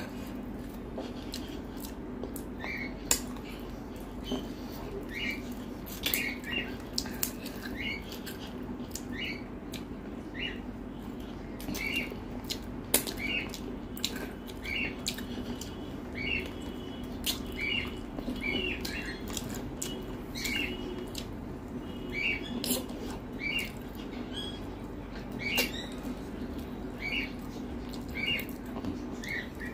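Close-miked chewing and lip-smacking as rice and chicken curry are eaten by hand: short wet clicks and smacks about once or twice a second. A steady low hum runs underneath.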